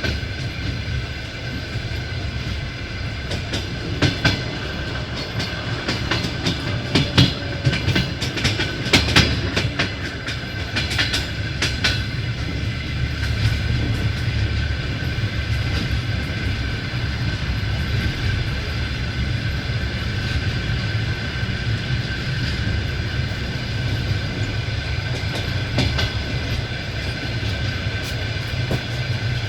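Passenger train running on the rails, a steady rumble of the wheels with a run of sharp clacks between about 3 and 12 seconds in, then evener running.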